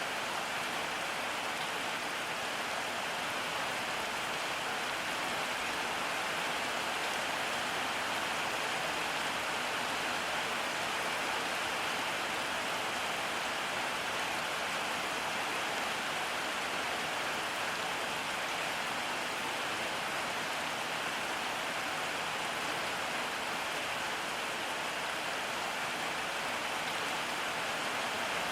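Steady rain falling, an even hiss with no letup and no thunder.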